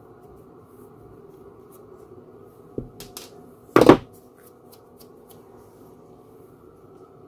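Parts and tools being handled on a workbench: a knock, a few small clicks, then one loud short clatter about four seconds in, over a steady low background hiss.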